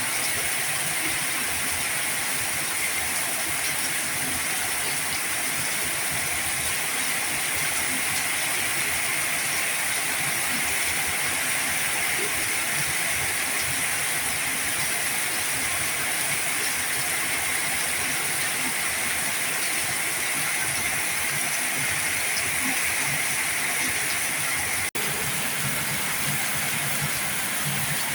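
Heavy rain falling in a steady, even hiss, broken by a split-second gap near the end.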